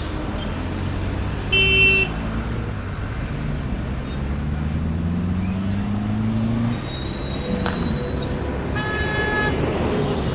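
Busy city street traffic with a steady rumble of engines and tyres. A car horn gives a short honk about one and a half seconds in and another near the end, and in between a vehicle's engine revs up, rising in pitch.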